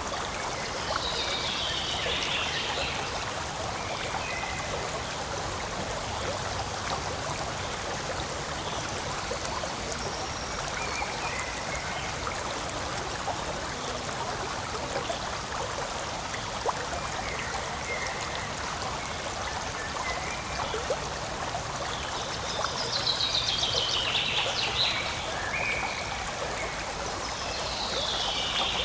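Forest stream flowing and trickling steadily over stones, with a few high, falling trills about a second in and again near the end.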